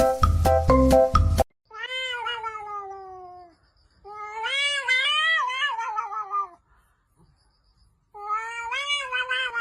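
A cat giving three long, drawn-out meows, each wavering in pitch, the first sliding down at its end. A snatch of music cuts off about a second and a half in, before the first meow.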